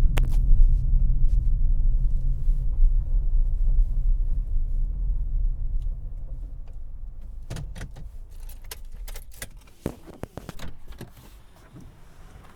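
Low rumble of the 2018 Honda CR-V LX heard from the driver's seat, which dies away about six seconds in. A run of sharp clicks and jangling keys follows.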